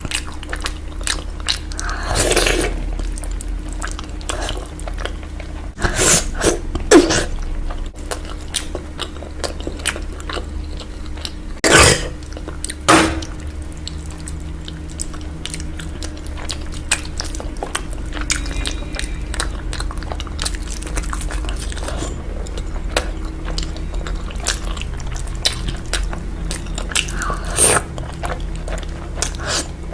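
Close-up chewing and wet mouth sounds of a person eating mutton curry, with many small clicks and a handful of louder bites or crunches scattered through.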